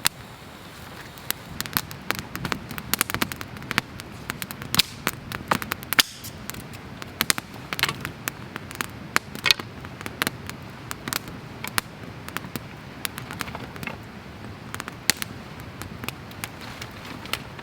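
Newly lit campfire burning and crackling, with irregular sharp pops several times a second over a soft low rush of flame.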